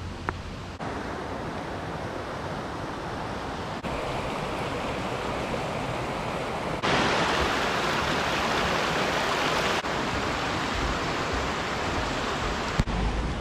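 Steady roar of rushing water, heard in several short clips that cut abruptly from one to the next about every three seconds. Each cut changes the loudness, and the loudest stretch falls between about seven and ten seconds in.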